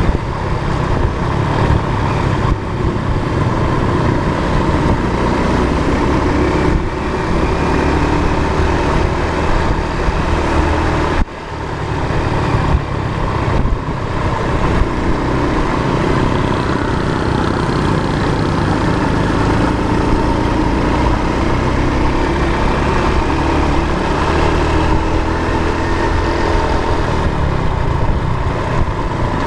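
Motor vehicle engine running under way with road noise, its pitch drifting slowly up and down. A brief break in the sound about eleven seconds in.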